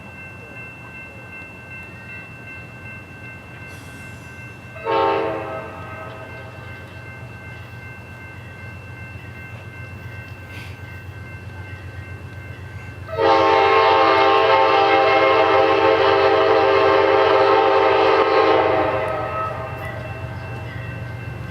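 Train locomotive's air horn sounding one short blast, then about eight seconds later a long blast of around five seconds, over the steady low rumble of a train.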